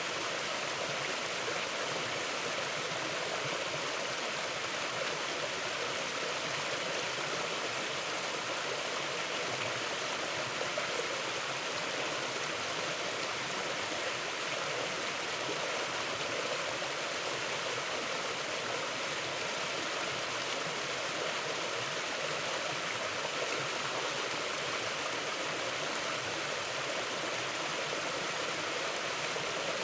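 River water flowing over rocks, a steady even rush with no breaks.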